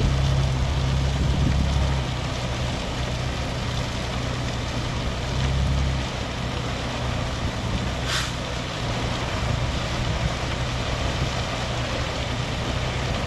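Dump truck's diesel engine running steadily, louder for the first couple of seconds and again around six seconds in. A short hiss comes about eight seconds in.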